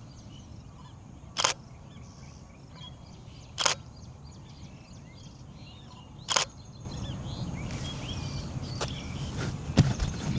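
Faint chirps of small birds in the open, broken by four sharp single clicks a couple of seconds apart. About seven seconds in the background grows louder, and a few dull thumps of footsteps come near the end.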